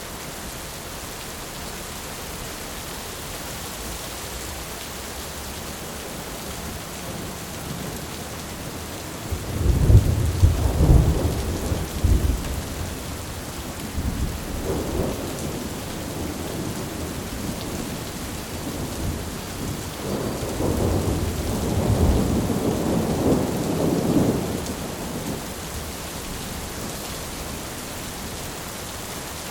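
Thunderstorm: steady rain hiss with two rolls of thunder, a sharp crack and rumble about ten seconds in and a longer rolling rumble about twenty seconds in.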